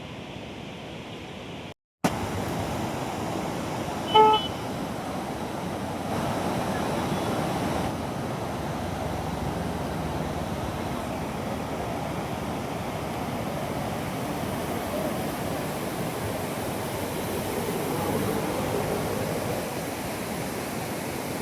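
A single short vehicle horn toot about four seconds in, over a steady rushing background of traffic or river noise.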